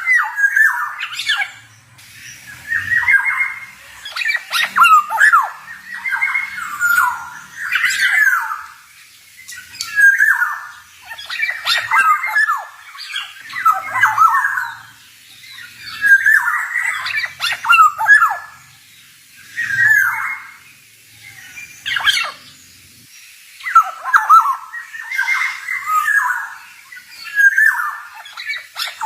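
Male black-naped oriole singing: short phrases of gliding notes, one every second or two with brief pauses between them.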